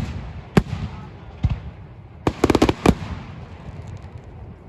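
Fireworks exploding: a couple of single sharp bangs in the first second and a half, then a rapid cluster of five or six bangs a little over two seconds in, followed by fainter crackling.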